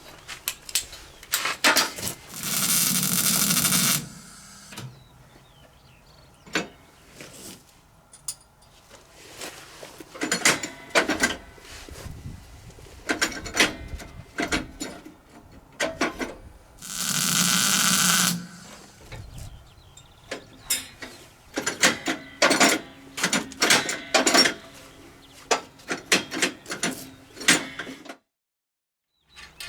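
Workshop hand work on metal parts: a run of clicks, knocks and ratcheting clatter, with two short bursts of a steady hissing tool noise, each about one and a half to two seconds long.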